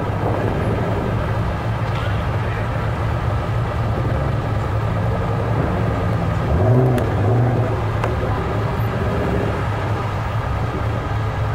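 Supercharged V8 of a black Shelby GT500 Mustang idling steadily as it creeps forward, with a short blip of revs about seven seconds in.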